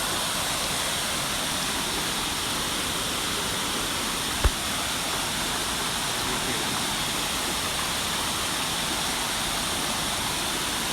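Steady rush of a waterfall's falling water, with one brief low thump about halfway through.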